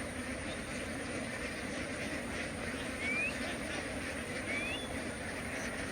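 A large flock of domestic ducks quacking together in a steady, dense chatter. A short rising chirp cuts through twice, about three seconds in and near the end.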